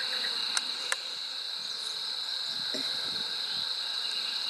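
Steady, unbroken high-pitched insect chorus, with two faint clicks about half a second and a second in.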